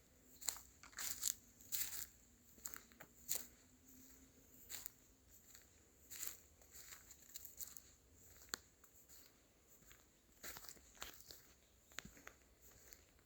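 Footsteps crunching through dry leaf litter and twigs, a crackle with each irregular step.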